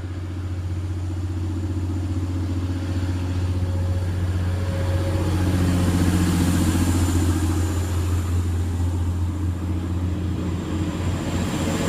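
Class 185 diesel multiple unit pulling out of the station, its diesel engines running under power and getting louder as it accelerates away, the engine note rising partway through.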